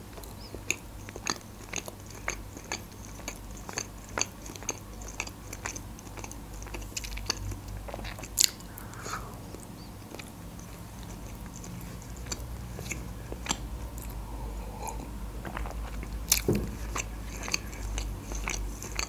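A person chewing a bite of open sandwich with salted red fish close to the microphone: irregular wet mouth smacks and clicks, several a second, with a sharper click about eight seconds in and another near the end.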